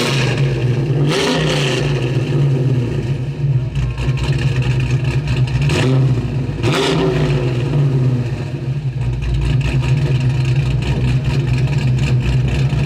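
A car engine running steadily at a raised idle, with a few sharp knocks about a second in and again twice around the middle.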